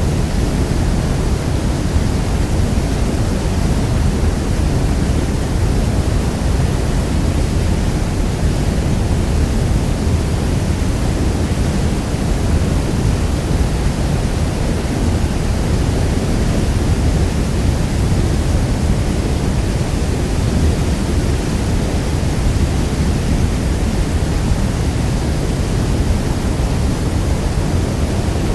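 Niagara Falls: the steady, loud roar of a massive waterfall, a deep rushing noise heaviest in the low end, unchanging throughout.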